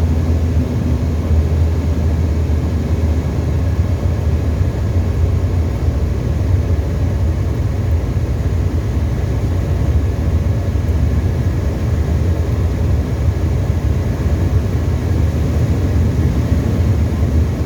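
Tecnam ultralight's piston engine and propeller running in steady flight: an even, low drone with no change in pitch.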